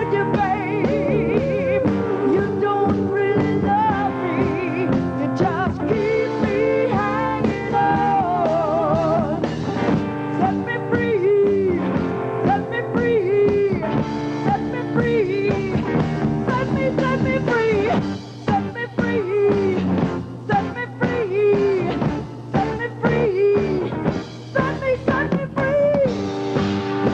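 A rock band playing a song, with a beat on the drums and melody notes that waver and bend in pitch above it.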